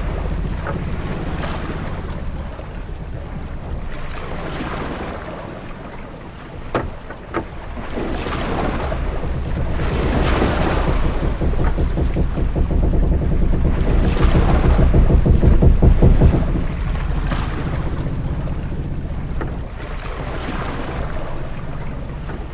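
Sailing-ship-at-sea ambience: waves washing against a wooden hull in slow swells over a low rumble of wind and water, with a couple of short sharp knocks about seven seconds in.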